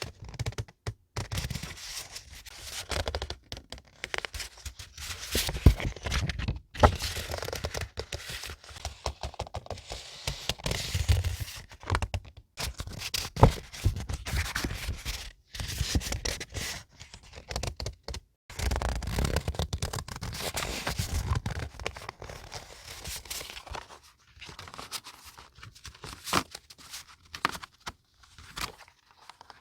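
Paper and stationery packaging handled up close: crinkling, scraping and tearing sounds in uneven bursts, with frequent sharp taps and clicks and a few short pauses.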